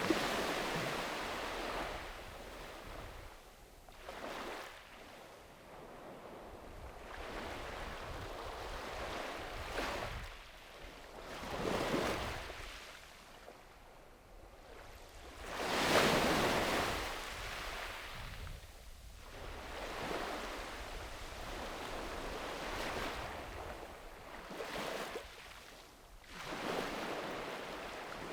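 Small sea waves breaking and washing up on a sandy beach, each wash swelling and fading every few seconds, the biggest near the start and about halfway through.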